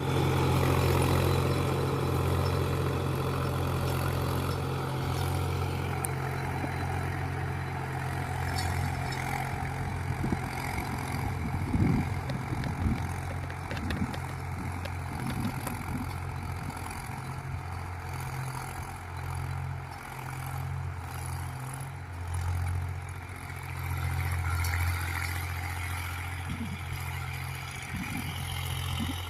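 Mahindra 265 tractor's three-cylinder diesel engine running steadily, with a few short knocks around the middle.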